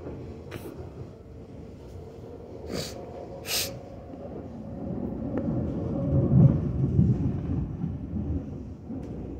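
Electric passenger train running, heard from inside the carriage: a steady rumble of wheels on the track that swells to its loudest a little past halfway, with a few short hisses in the first few seconds.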